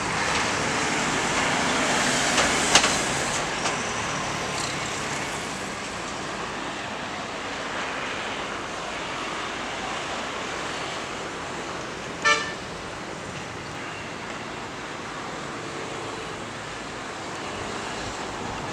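Road traffic passing steadily, louder in the first few seconds, with one short vehicle horn toot about twelve seconds in.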